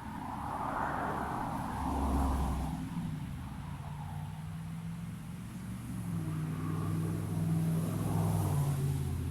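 A motor vehicle's engine running, with a steady low hum that swells in loudness about two seconds in and again near the end.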